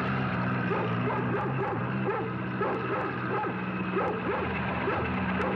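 Collie barking and yipping over and over, excitedly, over the steady running of a farm tractor engine.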